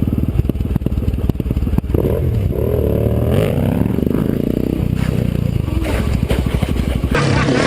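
Motorbike engine running hard with rapid firing pulses, revving up and down in pitch around the middle; the sound changes abruptly near the end.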